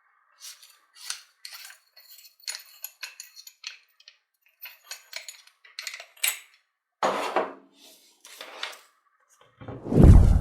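Small metal parts and tools clinking and clicking in quick, irregular taps and rattles as a hammer drill is taken apart. Near the end comes a sudden loud, deep boom that rings on.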